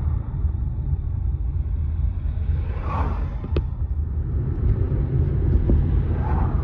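Steady low rumble of a railway carriage running along the line, heard from on board, with a sharp click about three and a half seconds in.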